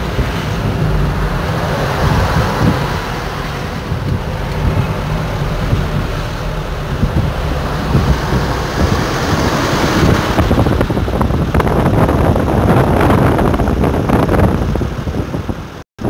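Trucks driving past on a road, a continuous engine rumble and tyre noise that swells between about ten and fifteen seconds in, with wind buffeting the microphone. The sound cuts out for a moment just before the end.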